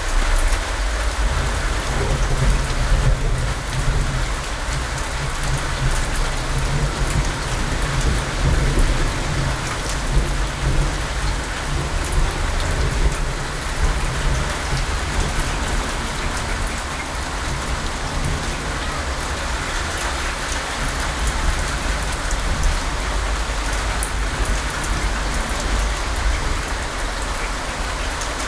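Heavy rain falling steadily, with a low rumble of thunder through the first half.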